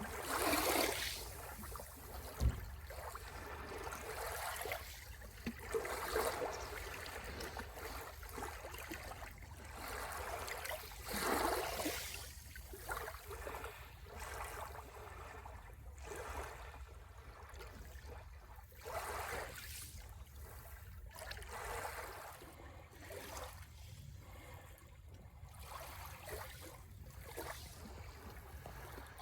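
Sea waves washing onto the shore, each wash swelling and fading every few seconds over a steady low rumble. A brief thump about two and a half seconds in.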